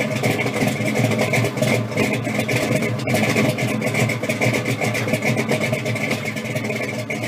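A car engine running steadily and loudly, with a rapid, rough, even pulse.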